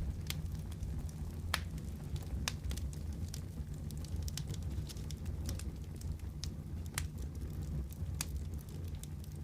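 Wood fire burning in a fireplace: a steady low rumble of flames with irregular sharp crackles and pops, a few a second.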